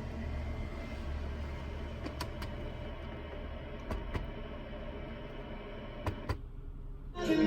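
A steady low hum with three pairs of faint clicks, then the sound drops out briefly before music starts near the end, as the radio is switched from a talk channel to a music channel.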